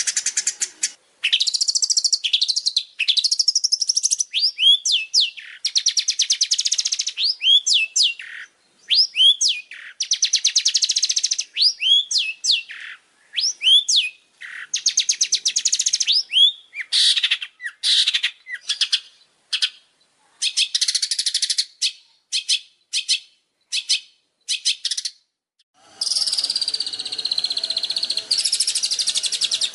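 Songbird singing a fast, varied song of buzzy trills and repeated sweeping whistles broken by short pauses, from a masteran (birdsong training recording) made for long-tailed shrikes to copy. After a brief break near the end the song goes on over a faint lower background.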